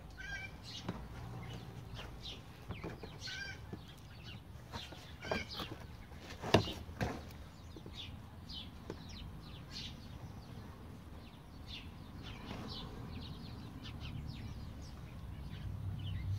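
Birds chirping over and over, with two sharp knocks about halfway through.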